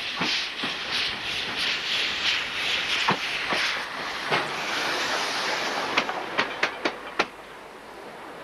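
Train running on rails with a rhythmic clatter, about three beats a second. About six seconds in comes a quick run of sharp clicks, then it goes quieter.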